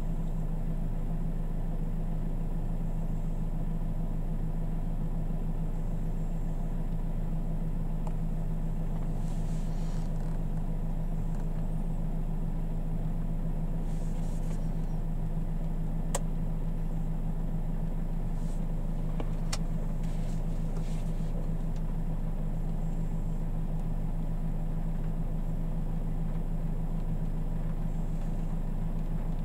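Mercedes E-Class W212 CDI diesel engine idling, heard from inside the cabin as a steady low hum. Two faint clicks come a little past halfway, about three seconds apart.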